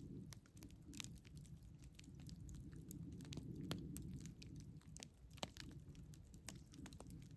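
Campfire crackling, with irregular sharp snaps and pops over a low steady rumble of the burning fire.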